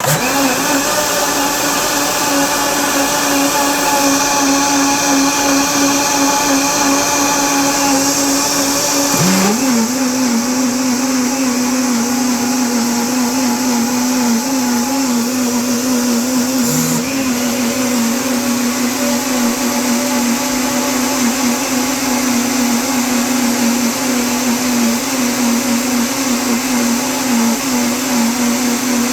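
Three electric blenders running together, a loud steady motor whine with several overlapping pitches. About nine seconds in the pitch briefly drops and climbs back, with another short change near seventeen seconds.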